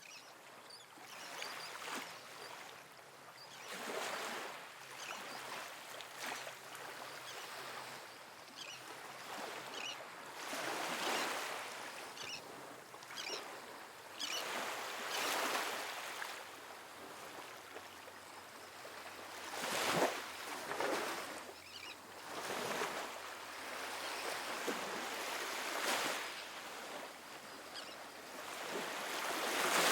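Small, soft ocean waves washing onto a sandy beach, the surf swelling and fading every few seconds, with a sharper splash about twenty seconds in and another near the end.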